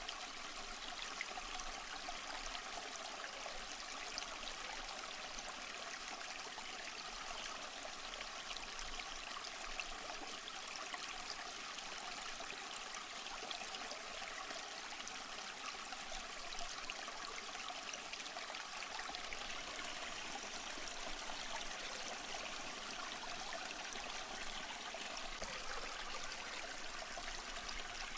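Small stream flowing over rocks, a steady trickling and burbling of water.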